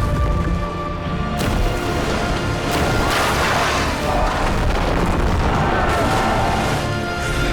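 Dramatic film score with sustained held tones over a dense, continuous deep rumble and booms: the sound design of a flood.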